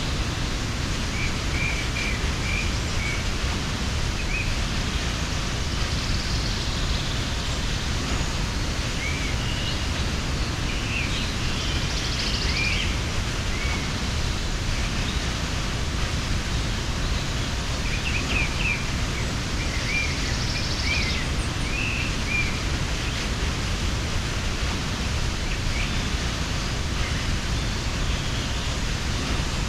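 Steady rushing of a waterfall, with small birds chirping now and then over it.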